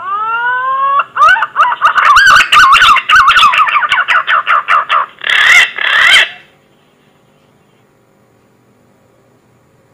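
Green pigeon (punai) song, as used as a hunting lure call. It opens with a rising whistle, then breaks into a quick run of wavering, warbling whistles for about six seconds before stopping.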